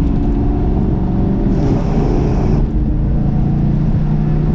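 1997 Ford Mustang GT's V8 engine running steadily as the car drives, with a brief rush of hiss about one and a half seconds in.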